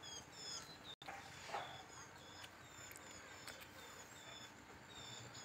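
A bird calling over and over in short, high chirps, faint, with a few soft clicks in between.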